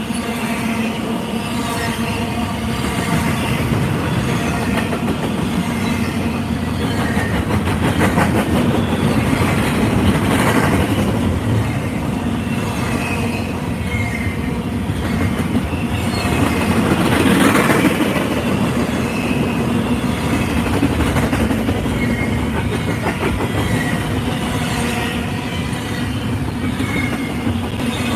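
Double-stack container train of freight well cars rolling past at close range: a steady rumble of wheels on rail with clatter from the trucks, growing louder about 10 and 17 seconds in.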